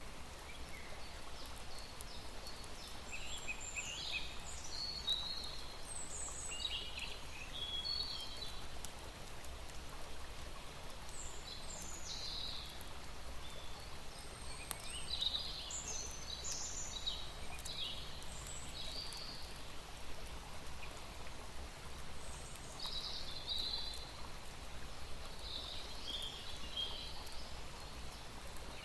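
Small birds chirping and twittering in short scattered phrases, over a steady low outdoor background hum.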